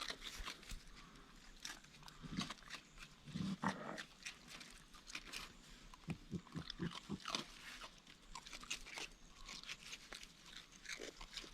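Raccoons chewing and crunching Fruit Loops cereal at a feeder, a steady patter of small crisp crunches and mouth clicks. There is a quicker run of soft chomps a little past the middle.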